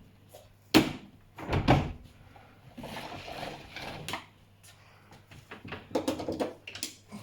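Hard plastic clunks and clicks as a Henry vacuum cleaner's motor-head lid is set back on the tub and clipped shut: a sharp click about a second in, a heavier knock soon after, some scuffing, then a quick cluster of knocks near the end.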